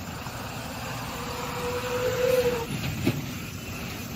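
Heavy vehicle running with a low, steady rumble. A steady tone swells for about a second and a half in the middle, and there is a single knock about three seconds in.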